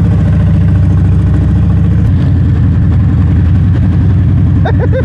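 2006 Harley-Davidson Dyna Super Glide's V-twin engine running steadily with an even, fast exhaust pulse; the note shifts slightly about two seconds in.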